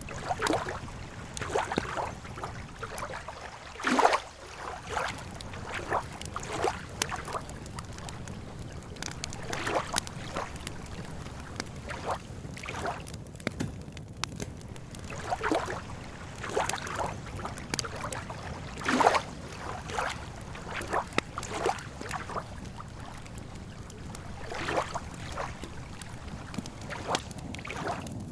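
Lakeside campfire ambience: irregular crackling and lapping water over a steady low rumble, with two louder pops, about four seconds in and again near nineteen seconds.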